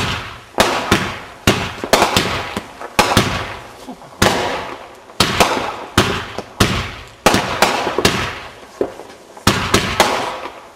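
Consumer aerial fireworks bursting overhead: a rapid, irregular series of sharp bangs, roughly two a second, each trailing off before the next.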